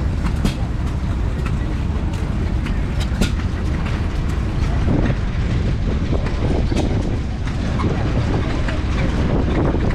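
Vintage stationary engines running, a steady low-pitched running sound with scattered sharp clicks.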